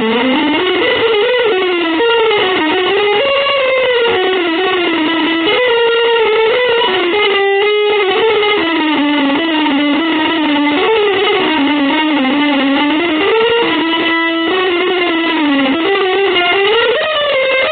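Electric guitar, with effects and distortion, playing a continuous single-note melodic line that glides and bends up and down in pitch without a break.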